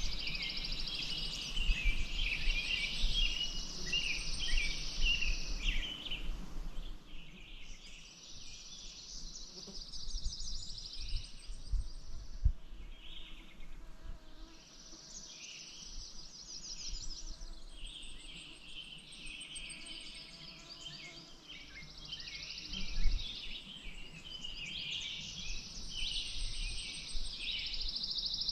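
Several songbirds singing over and over, long fast trilling songs of a few seconds each that overlap, over a faint low rumble. There are two brief low thumps, one near the middle and a louder one about two-thirds of the way through.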